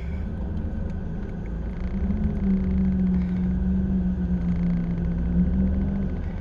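A car engine running: a low rumble with a steady hum that grows louder about two seconds in and stops shortly before the end.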